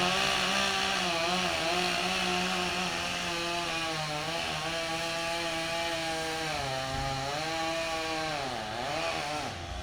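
Large chainsaw cutting up a thick maple trunk. The engine note sags and recovers three times as the chain bites into the wood, and it stops right at the end.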